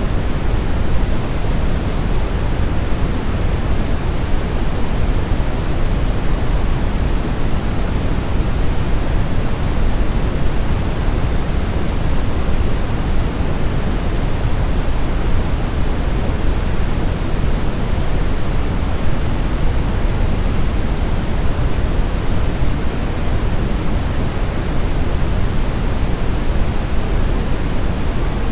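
Steady brown noise: a constant, even rush of synthetic noise weighted toward the low end, with no changes or events.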